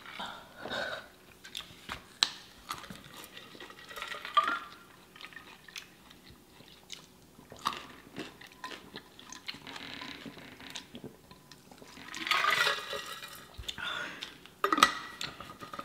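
Close-miked eating of chicken wings: chewing and biting, with many short wet mouth clicks and crunches and a longer breathy sound about twelve seconds in.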